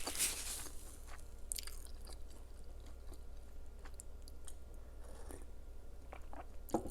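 Close-miked chewing of crunchy food, with dense crisp crunching at the start that thins out to scattered soft clicks of slower chewing.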